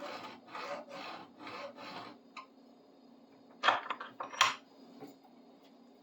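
A coarse triangular hand file drawn in short strokes across the grooves of a screwdriver tip held in a vise, about two strokes a second for two seconds, to re-profile the worn, beat-up tip. Two short, louder noises follow about a second later, over a steady low hum.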